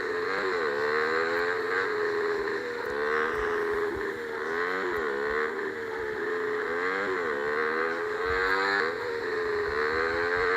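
Motorcycle engine running continuously, its pitch dipping and rising again about every second or two as the revs change.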